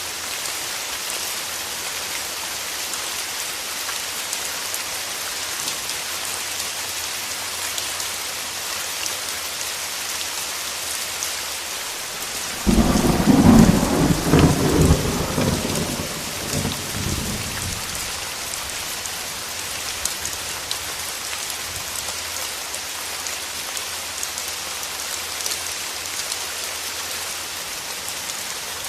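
Steady heavy rain hissing and pattering throughout. About twelve seconds in, a loud clap of thunder starts suddenly and rumbles away over about five seconds.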